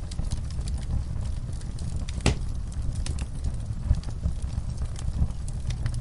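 Wood fire burning in a fireplace: a low steady rumble with scattered crackles and pops, one sharp pop a little over two seconds in.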